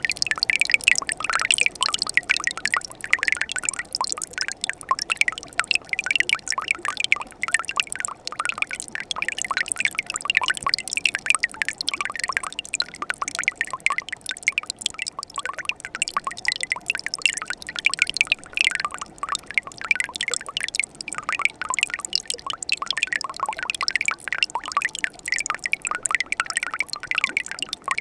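Winter mountain stream running between ice: water trickling and splashing with many quick, irregular drips and gurgles, steady throughout.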